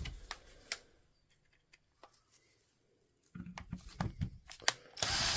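Small clicks and knocks of plastic tool-housing parts being handled and fitted together, with a gap of near silence in the middle. Near the end a power drill-driver starts up with a steady whir.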